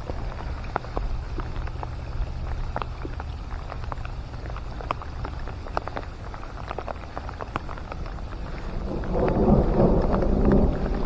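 Rain falling during a thunderstorm, with scattered raindrops ticking close by over a low steady rumble. About nine seconds in, a louder rumble of thunder swells for about two seconds.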